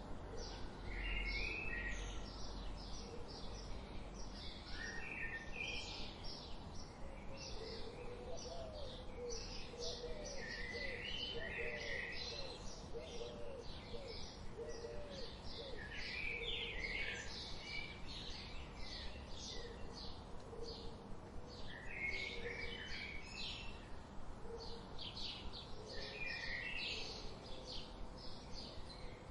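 Wild forest birds singing together: a steady run of short, high chirps repeated a couple of times a second, broken by recurring lower warbled phrases, with softer low notes underneath.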